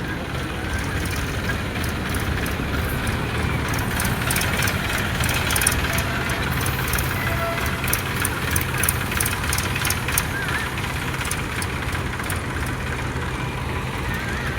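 Tractor diesel engine running steadily, with a run of light sharp clicks in the middle.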